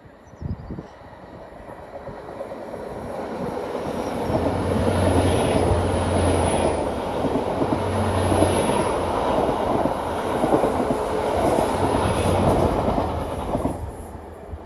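LNER Class 800 Azuma bi-mode train passing at speed on its diesel engines, with wheel and rail noise. It builds over about four seconds, stays loud while the carriages go by, then fades near the end.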